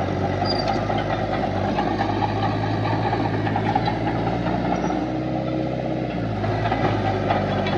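Heavy diesel engine of earthmoving machinery running steadily, a low drone with a slight dip in its lowest note about five seconds in.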